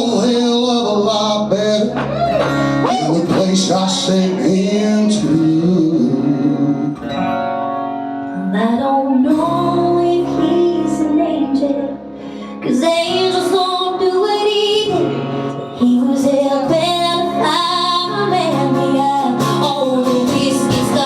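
Live country music: acoustic guitar accompanying a woman singing, with the vocal line sustained and bending in pitch.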